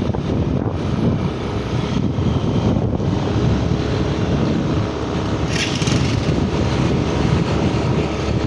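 Motorcycle engine running and wind rushing over the microphone while riding, steady throughout, with a brief hiss a little past halfway.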